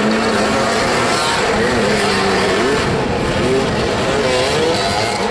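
Several motoball motorcycle engines revving up and down together, their pitches rising and falling as the riders manoeuvre.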